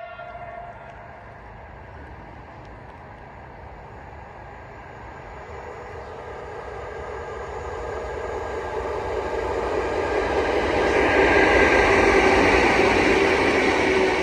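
A train approaching on the line. Its running noise grows steadily louder over about ten seconds and peaks near the end as it draws level.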